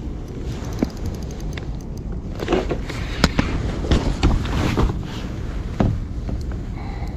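Scattered knocks and thumps, about seven in a few seconds, over a steady low rumble: handling noise on a kayak.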